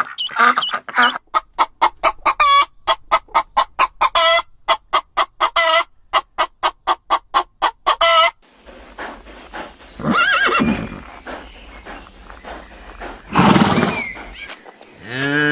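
Farm animal calls one after another: a rapid run of short, evenly repeated hen clucks for about seven seconds, then a horse whinnying and snorting near the end.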